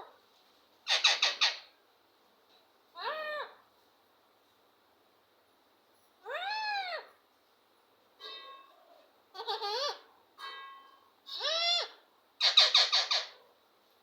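Ringneck parrot calling: a string of separate calls a second or two apart. Some are rising-and-falling whistled notes, others harsher rapid squawks, the loudest about a second in and near the end.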